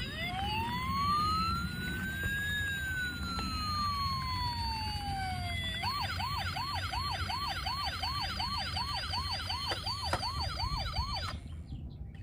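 Electronic emergency siren: one slow wail that rises for about two and a half seconds and then falls, switching about six seconds in to a fast warble of roughly two and a half cycles a second, which cuts off about a second before the end. A low rumble runs underneath.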